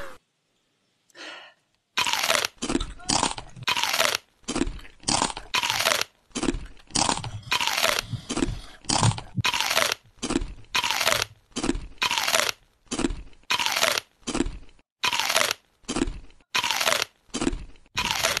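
Close-up crunching of a person chewing hard, stone-shaped chocolates. It starts about two seconds in and goes on as a steady run of crisp crunches, a little under two a second.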